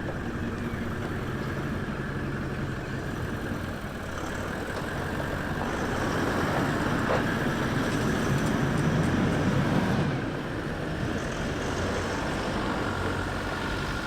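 Toyota LandCruiser 79 four-wheel drive running as it drives off, a steady engine hum with tyre rumble that grows louder for a few seconds in the middle, then eases back.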